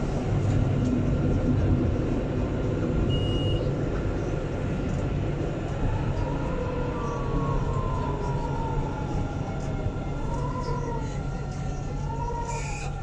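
Alstom Citadis 402 tram running along the line, with a steady low rumble from the wheels and running gear. In the second half a whine slides down in pitch, then rises and falls twice.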